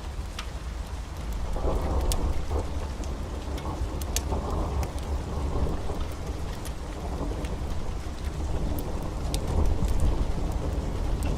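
Heavy rain with a long roll of thunder that builds about one and a half seconds in and keeps rumbling, with sharp crackles scattered through.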